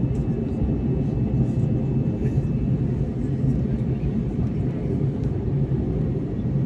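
Steady cabin rumble of an Airbus A321neo's engines and airflow, heard from inside the passenger cabin, with a faint steady whine above it.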